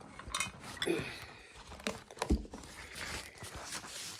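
Handling noises: crinkling with a few short, sharp knocks or clicks, about four of them in the first two and a half seconds.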